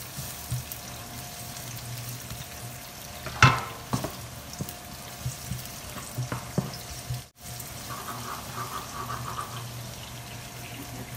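Chopped onion and garlic sizzling in hot oil in a nonstick wok while a wooden spatula stirs and scrapes them, with one sharp knock about three and a half seconds in and a few lighter taps after it.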